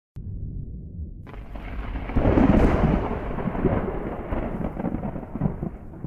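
Thunder: a low rumble starts suddenly, breaks into a sharper crack about a second in, peaks a second later and rolls away slowly.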